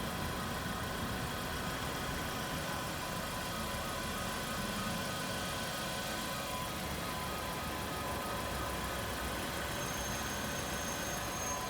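Car engine running steadily at low speed, a low rumble, as the car pulls out of the parking exit; a faint high-pitched tone joins near the end.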